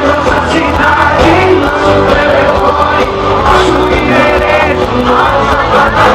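Live sertanejo band playing loudly, with singing over it and a crowd shouting and cheering along.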